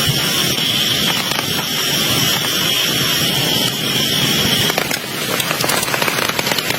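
Heavy rain falling with a steady hiss, over a high-pitched steady whine that stops about five seconds in. After that come scattered sharp taps of drops.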